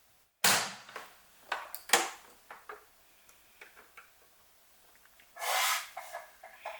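Sharp snap of something being handled on a work table, followed by a few lighter clicks and knocks and a short rustle near the end.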